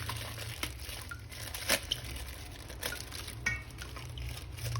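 A few light clicks and soft rustling from small plastic objects being handled, over a steady low hum.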